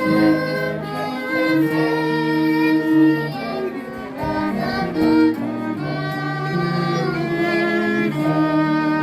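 Slow hymn music played in sustained chords, with a low bass line held under the higher notes and the chord changing every second or so.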